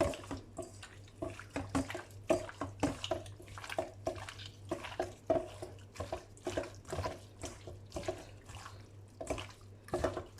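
Raw chicken pieces being squished and turned by hand in a honey-soy marinade: quick, irregular wet squelches, several a second.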